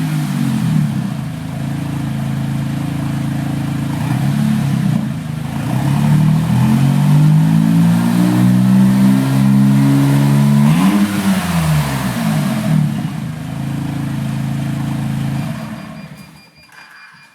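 Smart Roadster's three-cylinder turbo petrol engine running through an Akrapovic carbon exhaust, first steady at idle. It is then held at rising revs for several seconds and dropped back, followed by one quick rev blip and a return to idle. The engine sound stops about a second before the end.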